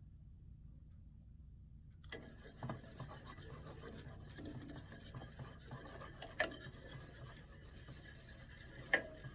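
Scratchy rubbing and scraping as a wax stick and hot soldering iron work soft furniture wax into a walnut wand. It starts about two seconds in and goes on unevenly, with a few sharper clicks, over a low steady hum.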